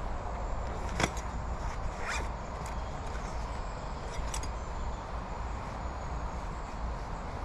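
Camping gear being handled: a few sharp clicks and light scrapes, the clearest about a second in, over a steady low rumble.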